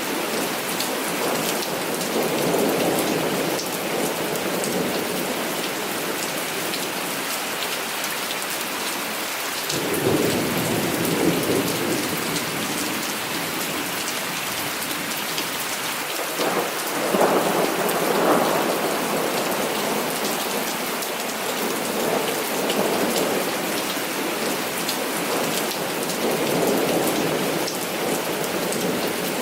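Heavy rain falling steadily, with rolling thunder. One rumble sets in suddenly about a third of the way through, and a louder one swells a little past the halfway point.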